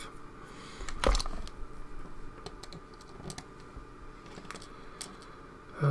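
Light scattered clicks and taps of small metal lock pins and tools being handled on a work surface during lock disassembly, with one sharper click about a second in.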